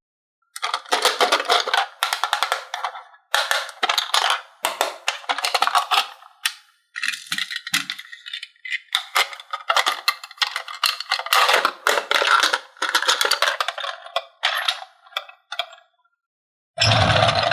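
Rapid clattering and clicking of small hard toy pieces being handled, coming in bursts with short pauses. A brief, louder burst with more low end comes near the end.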